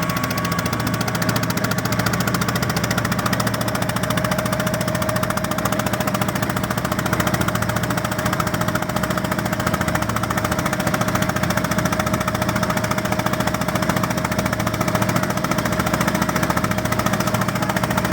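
Fishing boat's engine running steadily with a fast, even hammering pulse.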